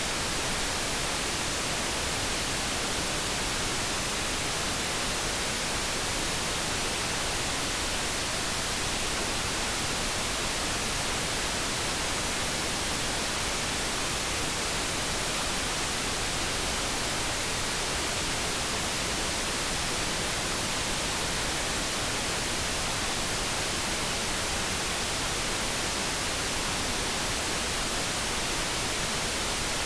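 Steady synthetic light brown noise, an even hiss that does not change.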